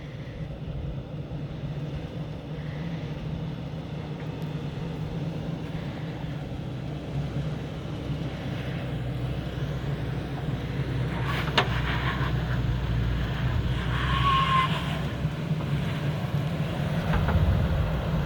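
2021 Toyota Tacoma pickup driving on a sandy trail, its engine running steadily and slowly growing louder. A sharp click comes about two-thirds of the way through.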